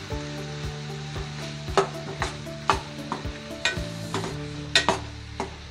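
Chopped onions, green chillies and curry leaves sizzling in oil in a steel kadai while being sautéed, a spatula scraping and knocking against the pan in about ten sharp strokes.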